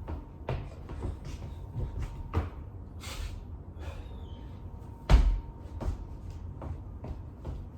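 Irregular knocks and thuds on a hard surface, roughly every half second, with one heavy thump about five seconds in and a short hiss about three seconds in.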